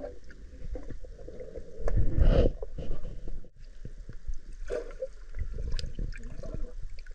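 Muffled water sloshing and gurgling around swimmers, with irregular knocks; louder about two seconds in.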